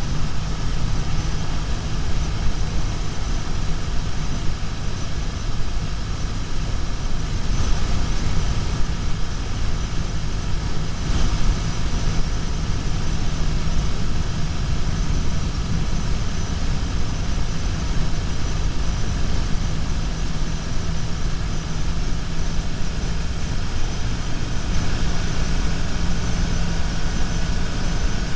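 BMW R1150GS boxer-twin engine running at a steady cruise, heard from a camera mounted on the motorcycle, with a steady rush of road and wind noise over it.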